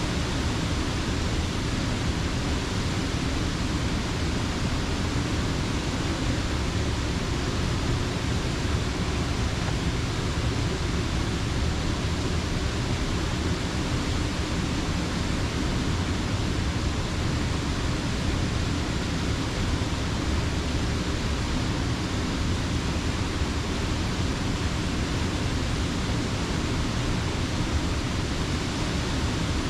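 Creek water rushing in a steady, unbroken stream at Slippery Rock Creek's mill dam, loud and full in the low end.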